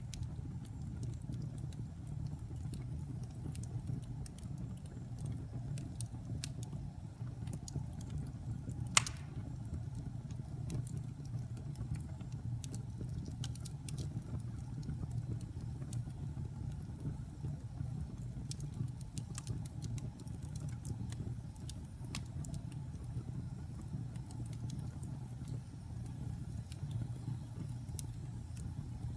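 Wood fire burning in a fireplace: a steady low rumble of flame with scattered small crackles and one louder pop about nine seconds in.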